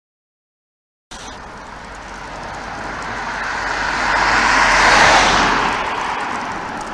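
A road vehicle passing by: a broad noise that starts abruptly about a second in, swells to a peak about five seconds in, then fades.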